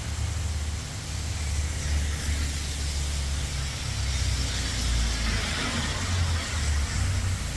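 Heavy rain falling, a steady hiss, with wind buffeting the microphone in a low, uneven rumble.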